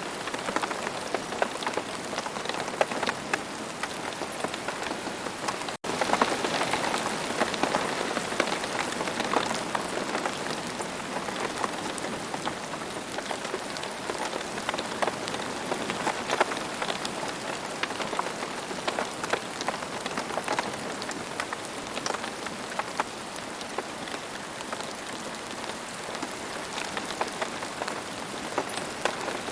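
Steady rain falling on a surface, a dense even hiss with many individual drop impacts ticking through it. There is a momentary break in the sound a little before six seconds in.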